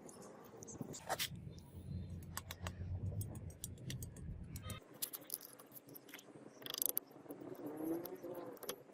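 Light metal clinks and scrapes, with a low hum that cuts off suddenly about five seconds in.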